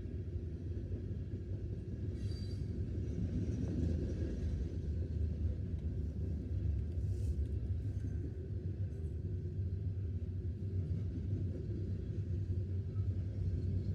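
Loaded coal hopper cars of a CSX freight train rolling past, a steady low rumble of wheels on rail, with a few faint brief high-pitched sounds about two seconds in and again around seven seconds.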